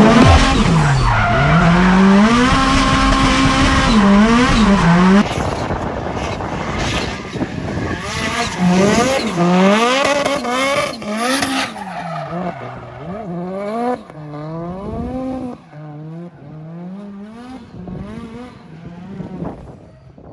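Drift car's engine revving up and down again and again, with tyres squealing and skidding. It is loud for the first five seconds, then fainter.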